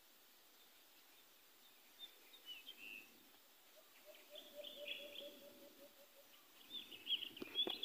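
Faint birds chirping on and off, with a low, evenly pulsing call for a couple of seconds in the middle and a few sharp clicks near the end.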